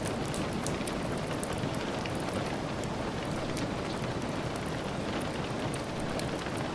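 Steady rain falling, with many light, sharp ticks and crackles scattered through it, typical of rain mixed with a wood fire crackling.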